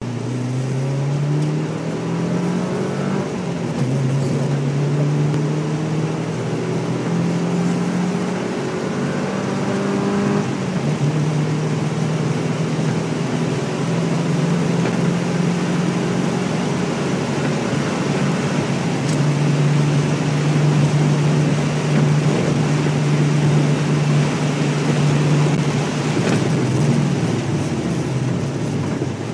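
Porsche 944 S2's 3.0-litre four-cylinder engine heard from inside the cabin while driving hard on track. The engine note climbs and drops back at two upshifts, then holds a steady high note, over constant tyre and wind noise.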